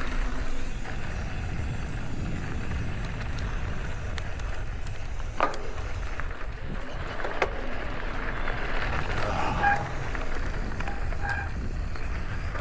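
Wind rumbling on the microphone as a mountain e-bike rolls fast downhill over a dirt trail, with tyre and trail noise and a couple of sharp knocks as the bike hits bumps.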